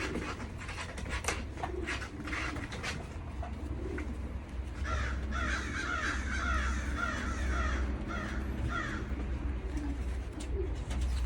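Racing pigeons in a loft calling and cooing, with scattered clicks and a run of quick, high, falling calls from about five to nine seconds in, over a steady low hum.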